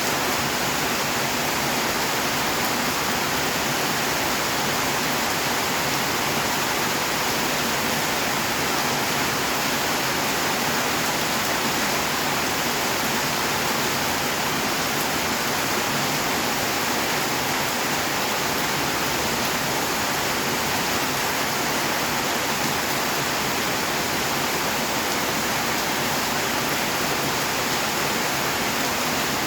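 Steady, even rainfall, a dense hiss of drops with no single drops standing out.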